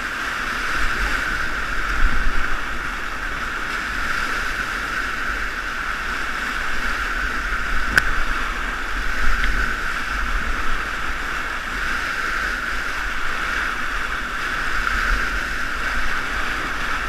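Steady rushing of whitewater from a river standing wave and its rapids, at a flow of roughly 170–180 cubic metres per second, with a low rumble underneath.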